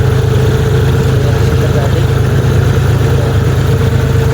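John Deere tractor's diesel engine running steadily at an even speed, with a constant low drone and a steady higher hum.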